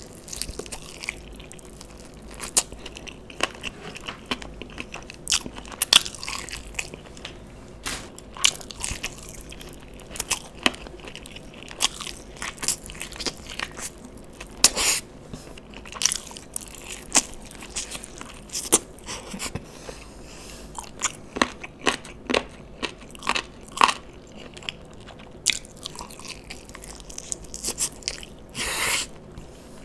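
A person biting and chewing sauce-coated fried chicken lollipops (frenched chicken winglets), with irregular sharp mouth clicks throughout.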